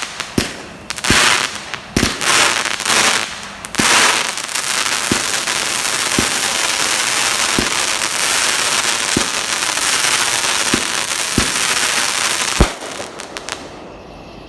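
Fireworks going off: a quick run of loud bangs, then about eight seconds of dense crackling with a sharper pop roughly once a second, ending in one last loud bang.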